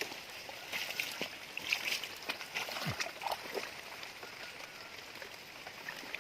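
Shallow stream water splashing and sloshing, a run of small splashes in the first half, over a steady hiss of running water and rain.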